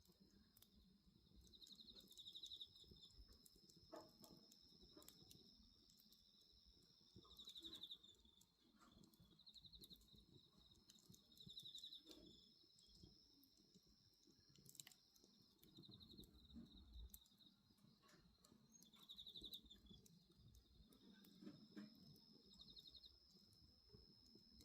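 Faint night insects: a steady high trilling with short pulsed chirps every two to four seconds, typical of autumn crickets. Scattered soft crackles and pops from a burning wood fire.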